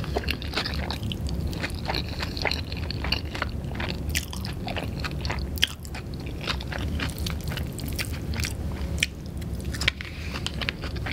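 Chewing a mouthful of curry pad thai noodles, a steady run of irregular short mouth clicks and smacks.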